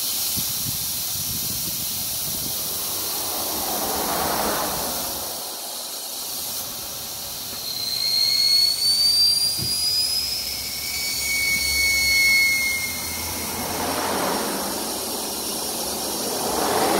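Road traffic going past: several vehicles swell up and fade away one after another, with a high, rising whine from a passing vehicle in the middle.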